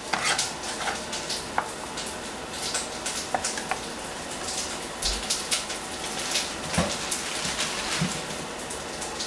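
Onion frying in hot oil in a pan, a steady crackling sizzle, with a couple of light knocks on a plastic cutting board.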